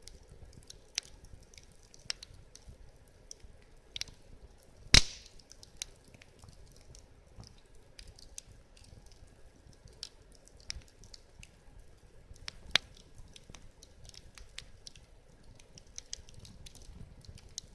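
Wood fire crackling in a steel fire stand: scattered sharp snaps and pops over a low, soft rumble of flames, with one loud pop about five seconds in.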